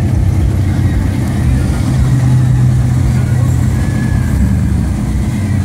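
Engines of classic cars and hot rods cruising slowly past in a line, a steady low rumble.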